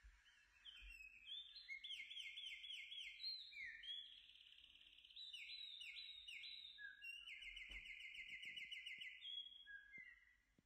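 A songbird singing faintly: quick runs of repeated chirps and falling whistled notes, phrase after phrase, fading out near the end.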